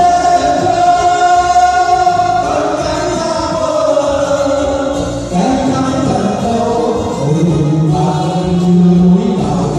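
Music: a choir singing long held notes over sustained accompaniment.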